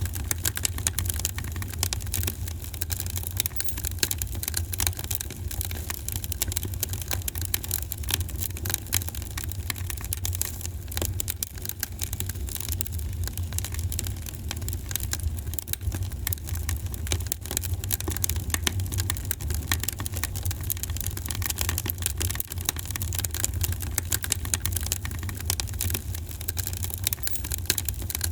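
Wood fire crackling in a fireplace: many small, irregular pops and snaps over a steady low rumble of the burning fire.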